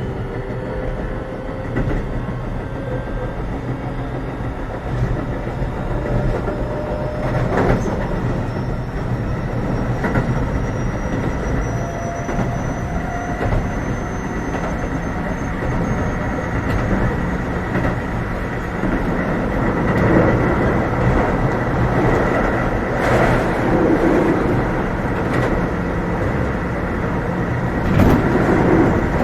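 Keio 7000 series electric train running at speed, with steady rumble of the wheels on the rail, a motor whine slowly rising in pitch over the first half, and a few sharp knocks from the rail joints.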